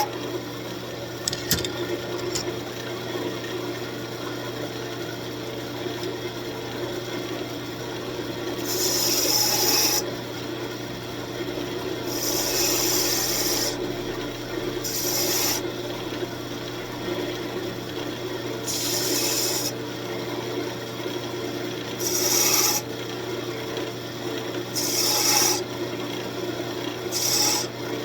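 Wood lathe running with a steady motor hum while a spinning walnut piece is worked, giving about seven hissing scrapes a second or two long, every two to three seconds.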